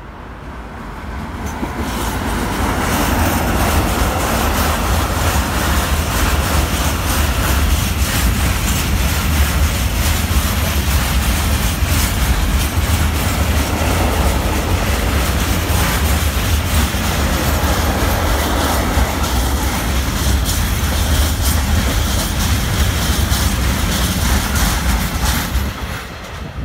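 Freight train hauled by a Bombardier TRAXX F140 AC2 electric locomotive passing close by, followed by a long line of silo wagons rolling past. There is a deep, steady rumble with wheel clatter. The sound grows loud over the first few seconds as the locomotive passes, then eases off near the end.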